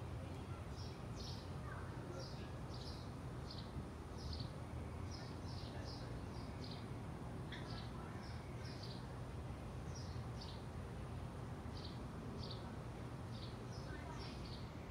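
Small birds chirping: quick, short, falling chirps, several a second, over a steady low background rumble.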